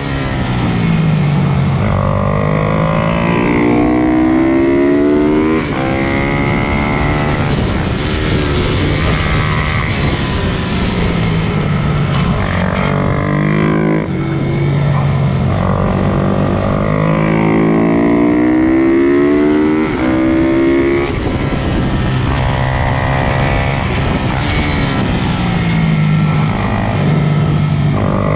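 Pit bike engines revving up and dropping back again and again as the bikes race, several engines overlapping at different pitches.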